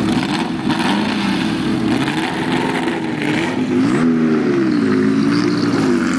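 Porsche 911's air-cooled flat-six engine running at idle, with a short blip of the throttle about four seconds in.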